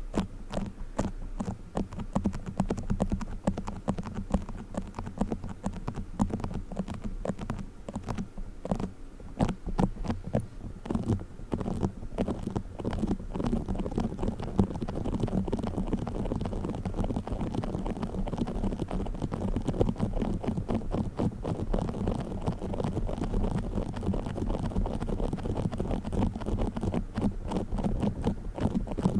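Play foam being squished and kneaded, a dense stream of small crackles and pops with a deep rumble beneath, growing thicker and more continuous about halfway through.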